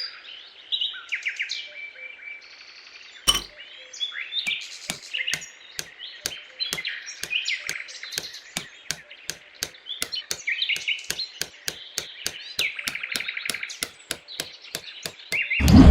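Small birds chirping and twittering. From about three seconds in there is a steady run of sharp taps, roughly three a second, over the birdsong.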